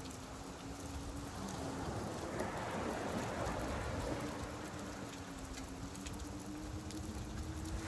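Steady rain falling, with fine drop patter over slow swells of surf washing on a beach. A faint steady low hum sits underneath.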